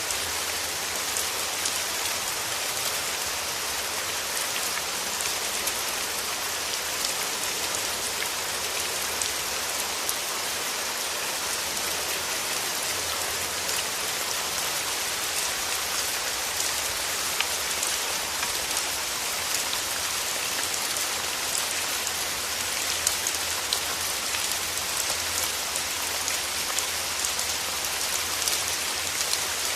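Steady rain falling through forest trees, an even hiss with many small drop ticks scattered through it.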